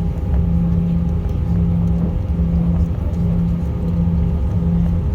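Airliner cabin noise from inside the plane on the ground: a steady low rumble of the jet engines and airframe, with a low hum that breaks off and resumes about every second.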